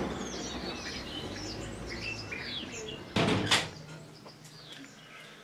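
Small birds chirping and singing over one another, with two loud knocks in quick succession about three seconds in.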